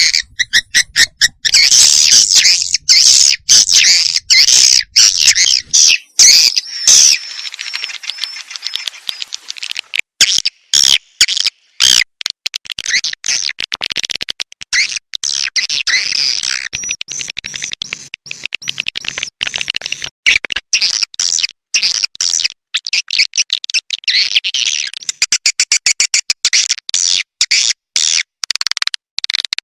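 Recorded edible-nest swiftlets twittering in a dense, high chatter, broken by many abrupt short gaps. This is a swiftlet-house call track, played to lure swiftlets in to roost and nest.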